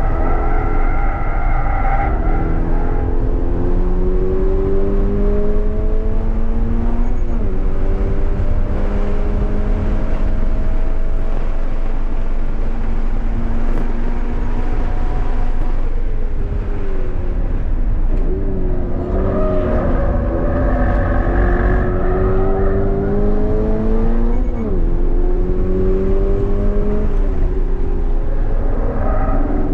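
2023 Subaru BRZ's 2.4-litre flat-four engine heard from inside the cabin, climbing in pitch at full throttle to about 7,000 rpm and falling away when the throttle is lifted for braking. There are brief, sharp dips in pitch at gear changes about seven seconds in and again near twenty-five seconds. Steady road and wind rumble runs underneath.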